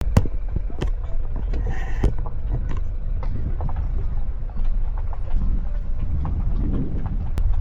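Car driving on a rough road: a steady low rumble with frequent small knocks and rattles.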